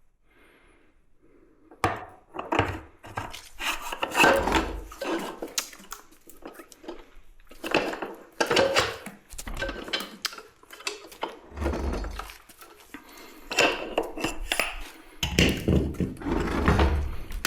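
Irregular clinks, knocks and clatter of metal parts and tools being handled, starting about two seconds in, with some heavier thumps among them.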